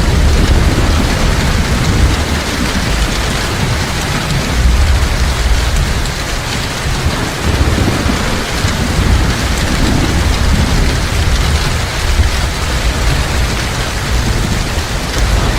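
Heavy rain falling steadily, with a low, shifting rumble of thunder underneath.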